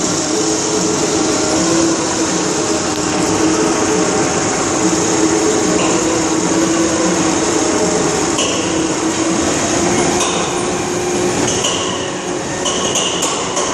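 MÁV M47 diesel locomotive's Pielstick engine running steadily just after a cold start, with several sharp clicks in the last few seconds.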